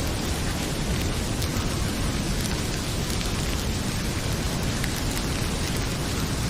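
Heavy rain falling in a steady, dense hiss, mixed with a wood fire crackling in a fireplace, its pops showing as occasional faint clicks.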